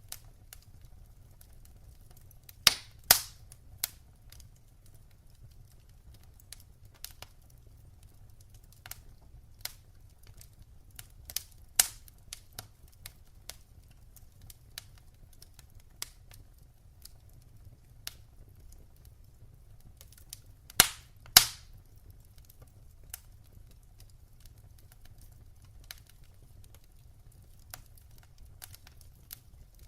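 Wood fire crackling in a fireplace: scattered sharp pops and ticks, with a pair of louder pops about three seconds in, a single loud one near twelve seconds and another loud pair about twenty-one seconds in, over a faint steady low rumble.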